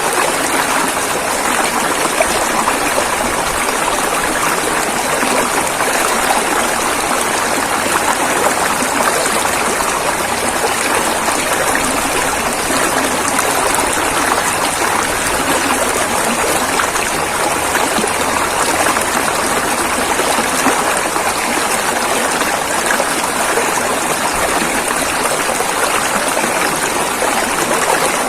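River water rushing over rapids, a steady, even rush with no breaks or changes.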